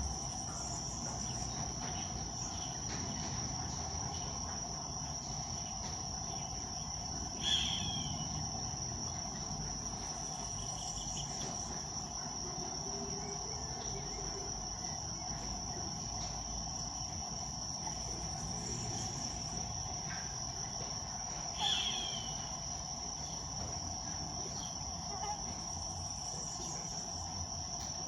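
Steady, high-pitched insect drone of crickets or cicadas, with two short downslurred calls of a roadside hawk rising above it, one about a third of the way in and one near three quarters.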